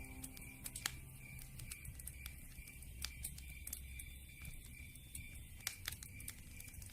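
Campfire crackling: irregular small pops and snaps from burning wood.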